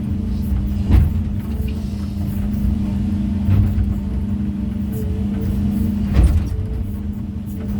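A heavy construction machine's engine running steadily, with a few short knocks about a second, three and a half seconds and six seconds in, typical of natural stones being set.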